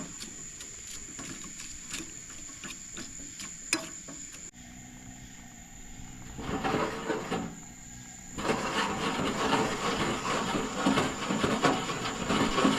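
Shrimp frying in a pan, a loud crackling sizzle that swells up about halfway through, after a few light clicks.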